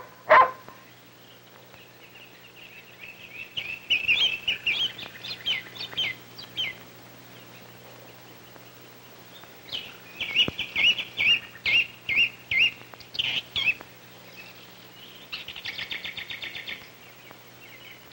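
Songbirds singing: two runs of quick, repeated chirping notes, then a fast, even trill near the end. A dog barks once right at the start.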